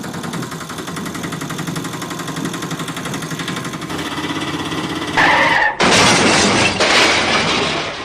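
An engine running with a fast, even pulse. About five seconds in there is a sudden loud crash with breaking and shattering, then a loud rushing noise.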